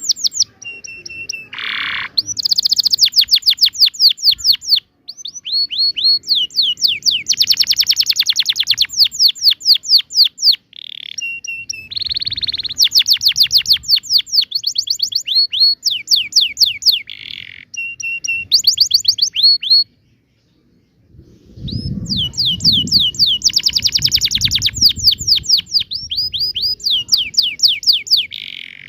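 Domestic canary singing a long song of fast rolling trills and quick repeated chirps, in phrases broken by short pauses, with a longer break about two-thirds of the way through. Just after that break, a low rumble sounds under the song for a few seconds.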